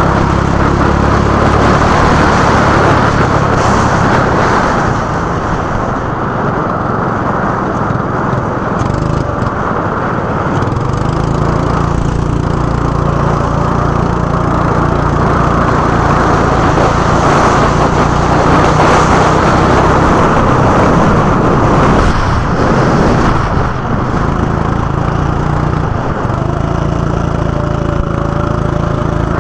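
Go-kart engine running hard, its note easing off twice, about five seconds in and again past twenty seconds, then climbing back as the throttle reopens.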